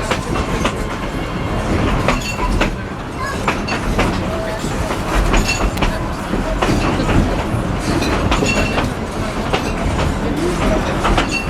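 Narrow-gauge passenger train rolling along the track: a steady rumble with wheels clicking over the rail joints and brief squeals from the wheels.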